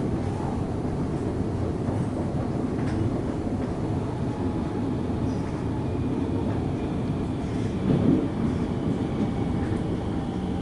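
Melbourne suburban electric train running along the track, heard from inside the carriage: a steady low rumble of wheels on rail, with one louder knock about eight seconds in.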